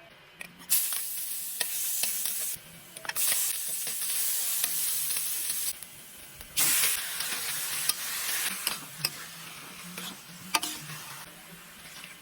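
Food sizzling in hot oil in a pan while being stirred, with sharp clicks of a utensil against the pan. The sizzle starts under a second in, drops out briefly twice and comes back, then dies down toward the end.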